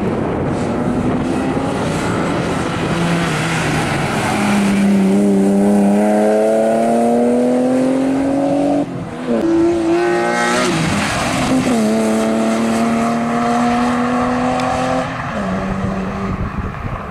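BMW 3 Series car engine accelerating hard. Its note climbs steadily, breaks about halfway through for a gear change with a quick rev, then climbs again before easing off near the end.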